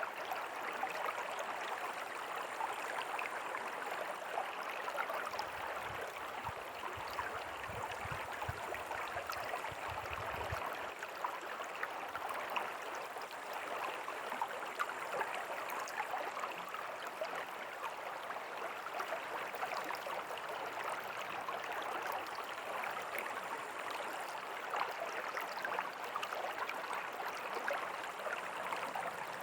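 River water flowing steadily over stones, a continuous rush with fine splashing and gurgling. A faint low rumble sits under it for a few seconds near the middle.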